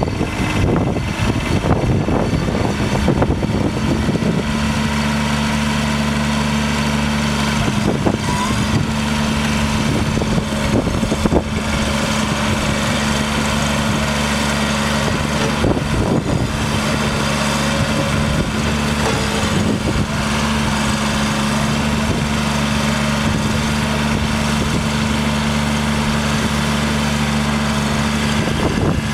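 Bobcat 463 skid-steer's Kubota diesel engine idling steadily, with a few short knocks along the way.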